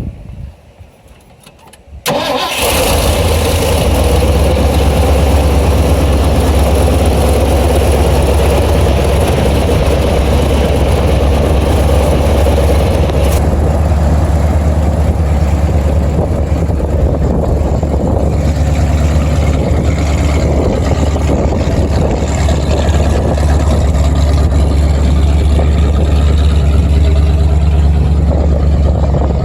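Silage truck engine starting about two seconds in, then running steadily at idle with a deep, even hum.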